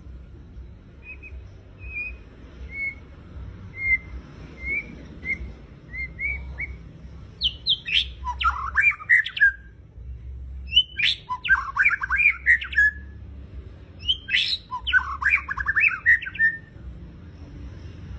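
White-rumped shama singing: a run of short single call notes, then three loud song phrases, each starting high and tumbling down in quick notes.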